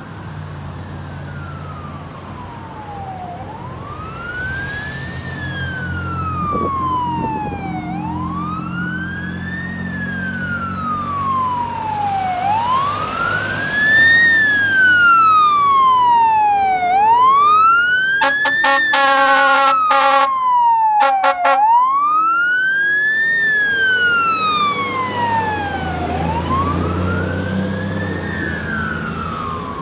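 Fire engine's siren in a slow wail, rising and falling about every four to five seconds, as the truck passes on an emergency response. A run of short horn blasts cuts in over the wail about two-thirds of the way through, and the truck's engine rumbles underneath.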